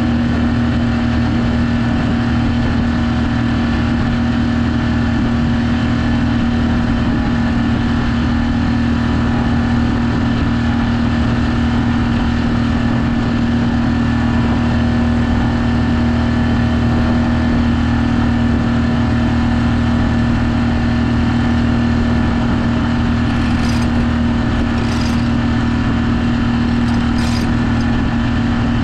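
Sailboat's motor running steadily at cruising speed under way, one even unchanging tone with no change in revs. A few brief clicks come in over it near the end.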